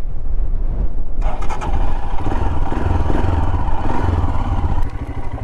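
Royal Enfield Himalayan single-cylinder motorcycle engine running as the bike moves off, getting louder from about a second in and easing off near the end.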